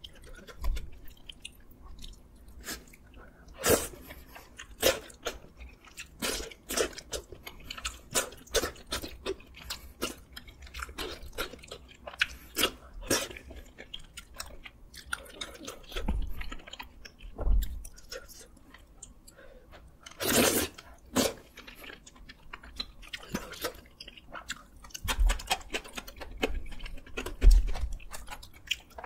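Close-up chewing of rosé tteokbokki rice cakes and rice, with many short, wet mouth clicks between bites.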